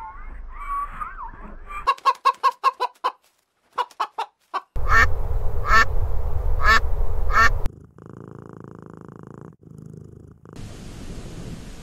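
A run of duck quacks in short spliced clips: a quick string of about seven quacks, a few more, then five loud quacks over a noisy background. A steady buzzing follows, then a hiss near the end.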